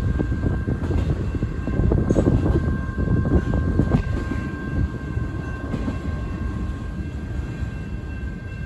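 Double-stack container freight cars rolling past on steel wheels: a steady low rumble with clattering and a few sharp knocks a couple of seconds in, easing off as the tail end of the train goes by.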